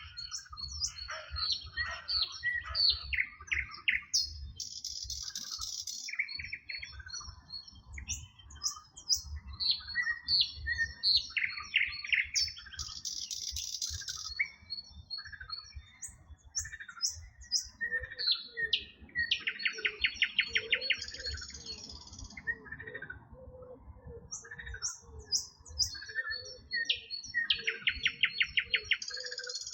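Several songbirds chirping and singing over one another: quick chirps, fast rattling trills and recurring buzzy phrases. From about two-thirds of the way in, a lower repeated call joins them.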